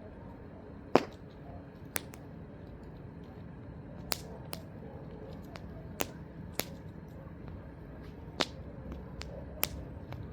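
Wood campfire crackling: sharp, irregular pops, roughly one a second and the loudest about a second in, over a steady low noise.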